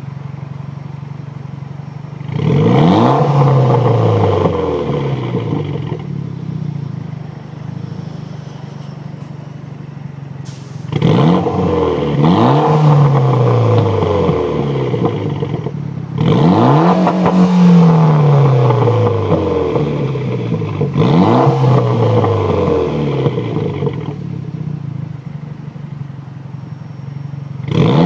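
Mitsubishi Evo X's turbocharged 2.0-litre four-cylinder idling through an Ultimate Racing cat-back exhaust and ETS high-flow cat, revved hard four times. Each rev rises quickly, then falls back to idle. A fifth rev begins at the very end.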